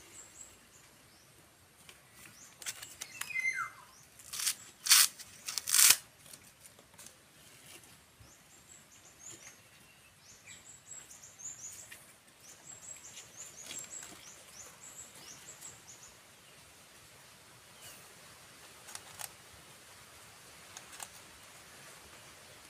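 Small birds chirping in quick series of short, high, falling notes, mostly in the middle of the stretch. Three or four sharp knocks or snaps about four to six seconds in are the loudest sounds.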